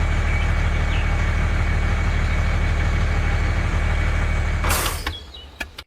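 Engine idling steadily with a fast, even low rumble. About five seconds in there is a short burst of hiss, then the engine sound fades and cuts off.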